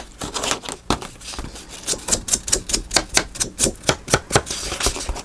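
An ink pad dabbed quickly against the paper edges to ink them brown: a run of sharp, dry taps, scattered at first, then about five a second.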